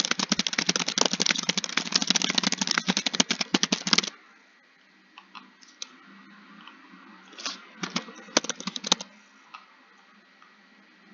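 Computer keyboard typing: a fast, steady run of keystrokes for about four seconds that then stops, followed by a few scattered key presses and a short burst of typing around eight seconds in.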